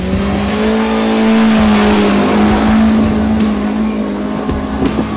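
Off-road 4x4 SUV engine revving hard under load in mud: the pitch climbs, then holds high and steady for a couple of seconds before easing slightly.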